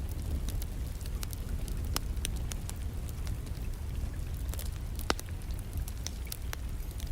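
Wood fire crackling in a fireplace, with irregular sharp pops, the strongest about two and five seconds in, over a steady low rush of rain.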